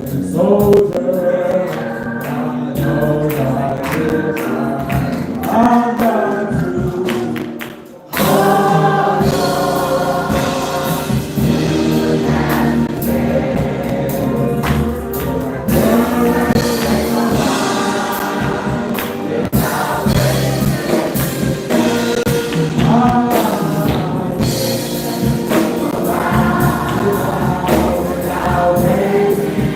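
Gospel choir singing. About eight seconds in it drops out briefly, then comes back fuller.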